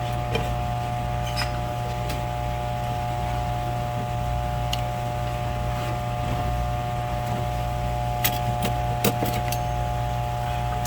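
Steady machine hum with a few higher steady tones, and a few light clicks or taps about eight to nine seconds in.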